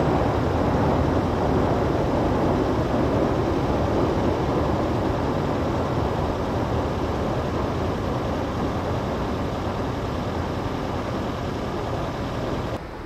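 A train running past: a steady rumble and rushing noise that slowly fades, then drops off suddenly near the end.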